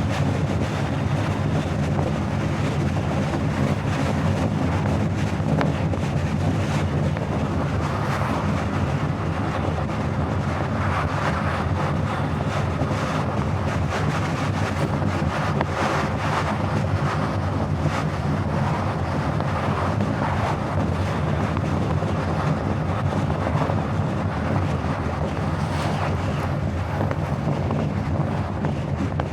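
Car driving at steady speed: a continuous low drone of tyres and engine with some wind noise, even in level throughout.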